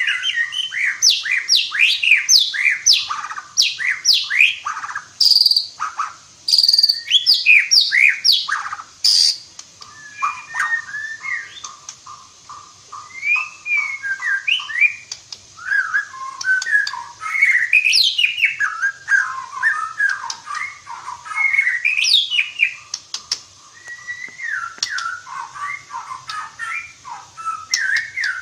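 White-rumped shama (murai batu) singing continuously and at full volume: fast runs of steep whistled sweeps with a few sharp clicks early on, then varied chattering and warbling phrases broken by loud rising whistles.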